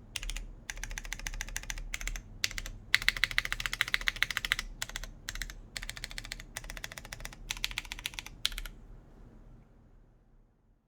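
Typing on a JJW Cloudline V2 mechanical keyboard, o-ring mounted with a polypropylene plate, fitted with lubed Cherry MX Brown switches and GMK keycaps. Runs of keystrokes come with short pauses between them, the fastest and loudest run in the middle. The typing stops about three-quarters of the way in.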